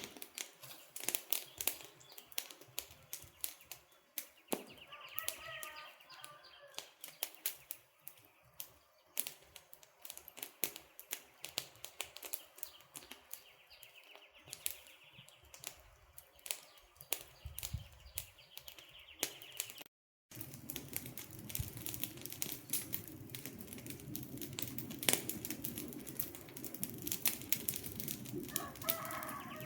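Wood campfire crackling with many sharp snaps and pops. A bird calls briefly about five seconds in and again near the end. About twenty seconds in the sound cuts out for a split second, and after that a low steady rumble sits under the crackling.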